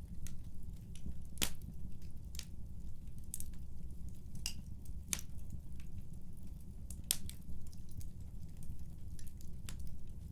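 Wood burning in a fireplace, crackling: irregular sharp pops and snaps over a low steady rumble of the fire, with a few louder snaps.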